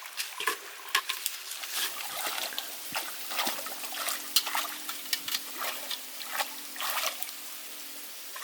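Water splashing and sloshing in many irregular strokes, with a faint steady hum underneath from about two seconds in.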